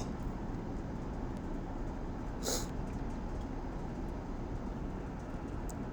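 Steady low background noise: room tone under a pause in the narration, with one brief hiss about two and a half seconds in.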